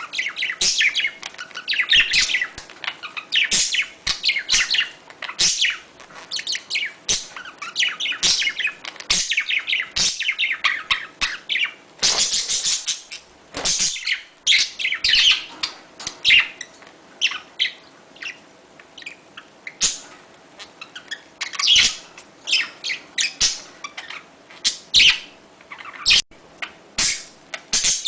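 Budgerigars chattering and warbling in a dense, continuous stream of quick high chirps and trills, with a louder burst about halfway through.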